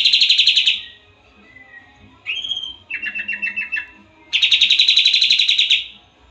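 Sooty-headed bulbul (kapas tembak) singing: a loud, fast, rattling trill at the start and again near the end, with a short rising whistle and a quicker, softer trill in between.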